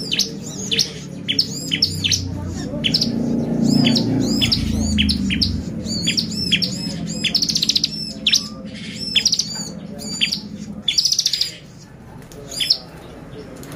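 Bar-winged prinia (ciblek) singing a fast, excited string of sharp, high arched chirps, broken by a few short buzzy trills. A low background rumble runs under the song and drops away near the end.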